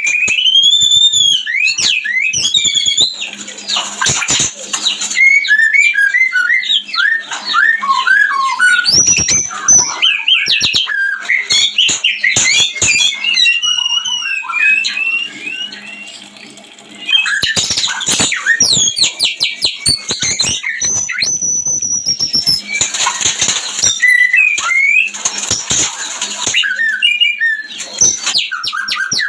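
White-rumped shama (murai batu) singing a long, varied song of whistled notes that rise and fall, fast trills and chattering phrases, with a brief lull about sixteen seconds in. This is the breeding-condition song, used as a lure call for caged shamas.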